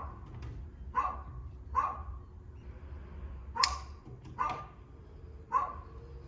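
A dog barking repeatedly: about six short barks, roughly one a second, with a longer pause in the middle.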